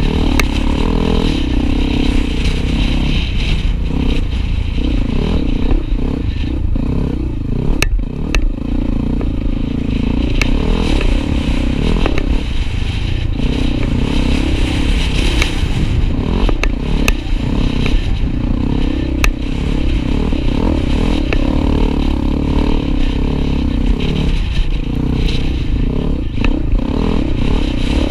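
Honda Tornado 250 trail motorcycle engine running steadily under way, with rattling and a few sharp clicks over the engine note.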